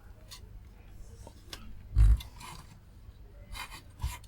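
Handling noises at a workbench: faint scattered clicks, a dull thump about two seconds in, and a short knock near the end.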